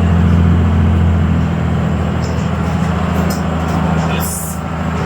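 Blue Bird school bus engine running steadily while the bus drives, heard from inside the cabin as a loud low drone. A short hiss or rattle comes about four seconds in.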